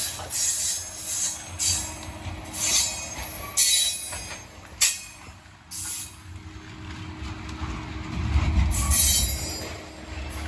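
Covered hopper cars of a freight train rolling past close by: steel wheels on rail give a steady low rumble, broken by short, sharp high-pitched screeches and clacks at uneven intervals. A heavier rumble swells about eight seconds in.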